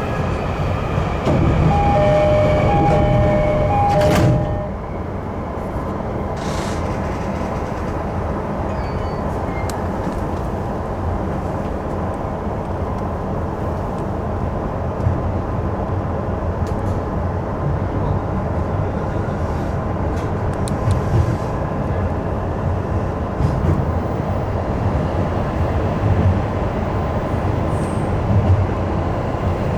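Train door-closing chime, two alternating tones repeated for a few seconds, ending with the doors shutting with a knock about four seconds in. Then the electric commuter train pulls away with steady running rumble and occasional rail-joint clicks.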